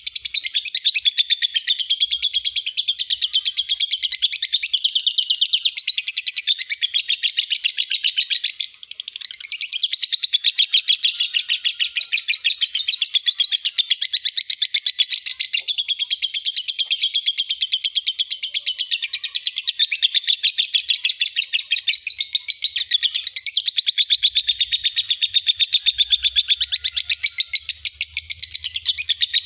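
Lovebird singing a long, fast chattering trill, with a brief break about nine seconds in.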